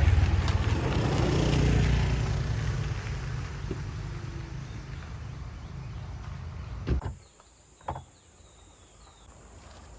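A motor vehicle's engine rumbling with a slowly falling pitch as it passes and fades away. About seven seconds in it cuts off suddenly to quieter outdoor ambience with a steady high insect-like hiss and a couple of short knocks.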